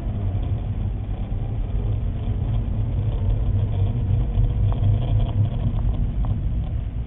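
Car engine and road noise heard from inside the cabin: a steady low rumble with a few faint ticks in the middle.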